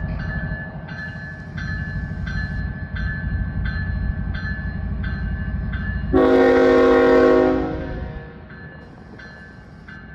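Norfolk Southern freight locomotive with its diesel engine rumbling while a grade-crossing bell dings steadily. About six seconds in the locomotive's air horn gives one short chord blast, the loudest sound, under two seconds long.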